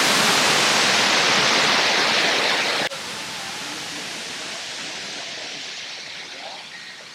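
A loud, steady rushing noise that cuts off abruptly about three seconds in. A much quieter rush follows and fades away.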